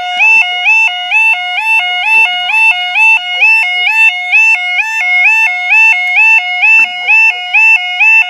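UK level crossing's electronic two-tone yodel alarm sounding loudly, stepping from a low tone to a high tone about twice a second: the warning that the barriers are closing or a train is due.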